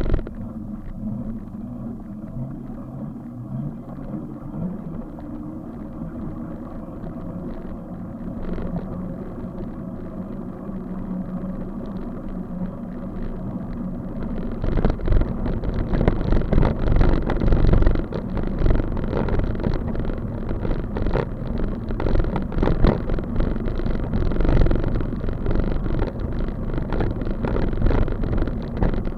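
Rumble of road and wind noise while riding a bicycle, with wind buffeting the microphone. It grows louder and gustier about halfway through.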